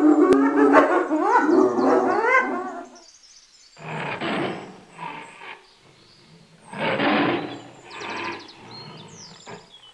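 Hyena calls: a run of rising, wavering cries for the first three seconds, then a series of rough growls about a second or two apart.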